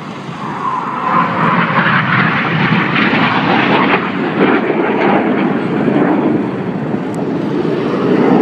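BAE Systems Hawk T1 jets flying past with the roar of their Adour turbofan engines. The noise swells about a second in and stays loud.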